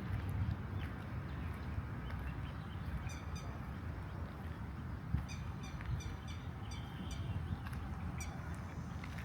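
Birds calling in short, quickly repeated chirps, in clusters, over a steady low rumble.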